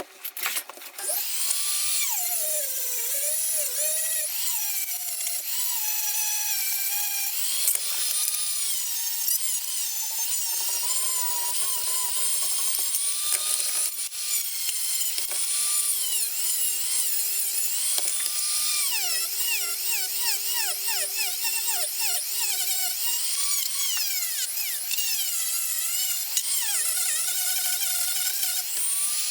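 A small power tool running and grinding, starting about a second in, with a high whine that keeps wavering up and down in pitch as it works.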